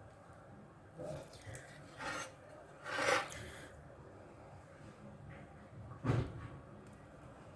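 Handling noises from piping whipped cream onto a cake: three short rustles in the first few seconds, then a soft knock about six seconds in.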